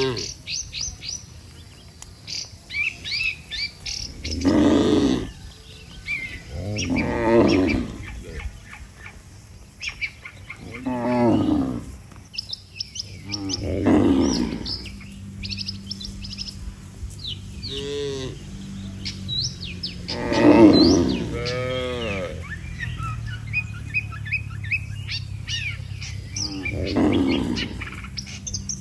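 Cattle mooing again and again, about seven or eight separate calls, each lasting roughly a second, with small birds chirping throughout.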